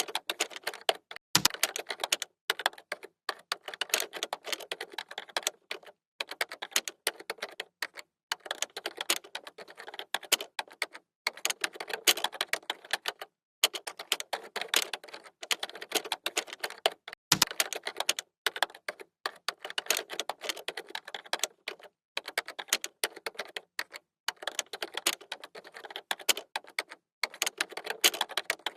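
Computer keyboard being typed on: fast, continuous key clicks broken by brief pauses, with a heavier key strike twice.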